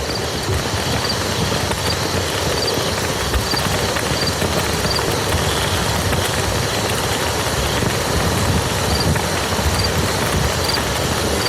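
Steady rain falling on a muddy field, an even, unbroken patter of drops. A faint high chirp repeats every half second or so, pausing for a few seconds midway.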